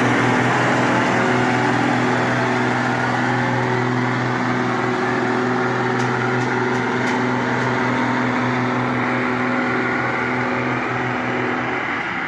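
Diesel passenger train pulling away: a steady engine drone over a broad wheel-and-rail rumble, fading slowly as it recedes, with a few sharp clicks about halfway through. The drone cuts out near the end.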